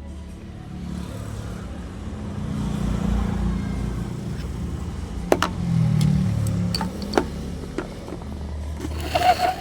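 A motor running with a steady low hum that grows louder about three seconds in, with a few sharp clicks and knocks in the second half and a brief clatter near the end.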